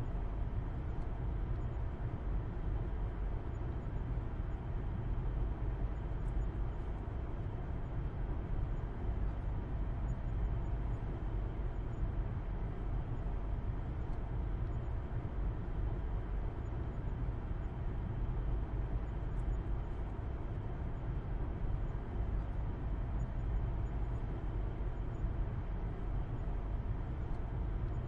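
Car driving at a steady speed, heard from inside: a constant low engine and road rumble with tyre noise, no changes in pitch or speed.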